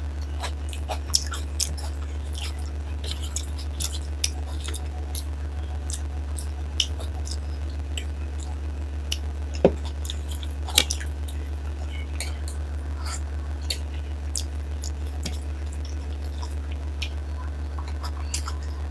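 Close-miked wet chewing and mouth smacks from eating soft dal and rice, with scattered sharp clicks, the loudest just under ten seconds in and about a second later. A steady low hum runs underneath.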